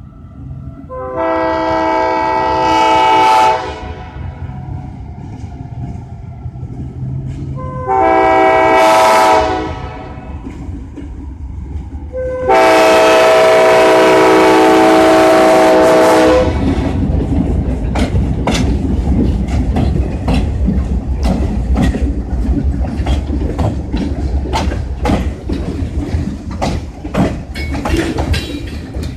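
Diesel freight locomotive's multi-tone air horn sounding three blasts for a grade crossing, the third the longest and loudest. The locomotives then rumble past close by, and the freight cars' wheels click over the rail joints.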